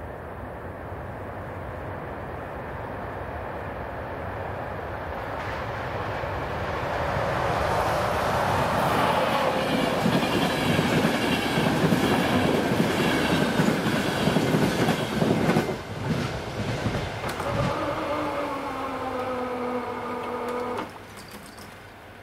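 Passenger train approaching and running through a level crossing, growing louder over the first eight seconds into a loud rumble of wheels on rail with clicks from the rail joints. As it moves away a falling whine fades out, and the sound drops off abruptly near the end.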